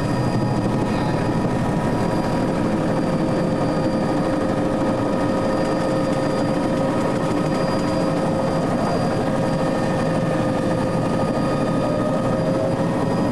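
Helicopter running steadily: a loud, dense drone with steady whining tones that do not change.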